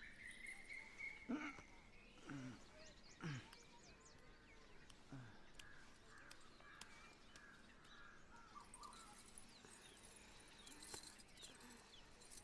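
Near silence with faint birds chirping. In the first few seconds there are a few short low sounds that drop in pitch.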